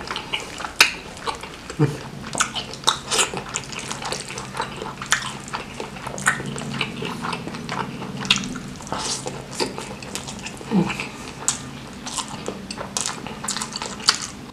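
Close-miked wet chewing and lip smacking as a mouthful of spicy stir-fried baby squid and rice is eaten by hand, with many irregular sharp clicks. A low steady hum sits under most of it from about two seconds in.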